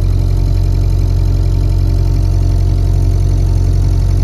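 Boat engine running steadily under way, a loud, even low hum.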